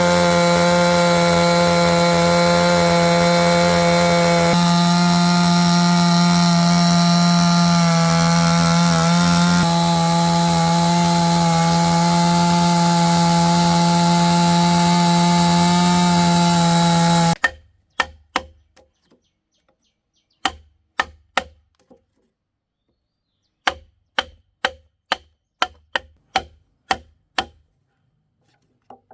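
A power saw runs steadily through wood, its motor holding one pitch with small shifts, and cuts off suddenly about two-thirds of the way in. Then come runs of sharp knocks, a few a second, with silence in between.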